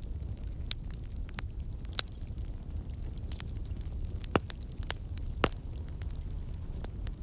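Wood fire crackling in a fireplace: a steady low rumble of flames with scattered sharp pops and snaps, two louder pops a little over four and about five and a half seconds in.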